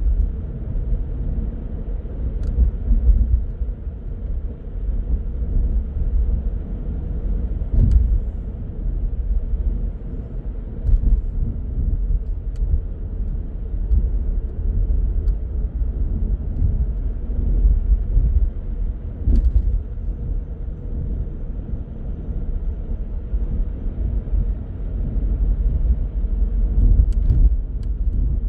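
Car driving at city speed: a steady low rumble of tyres and engine on the road, with a faint steady hum and a few faint clicks or knocks from the road surface.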